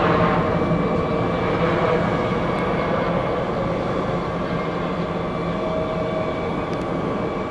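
Boeing 717-200's twin Rolls-Royce BR715 rear-mounted jet engines running, a steady rumble with a faint whine.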